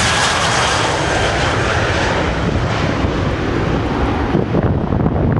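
Jet airliner passing, a loud engine rush with a faint whine gliding down in pitch; the high part of the noise thins out after about three seconds, and wind buffets the microphone near the end.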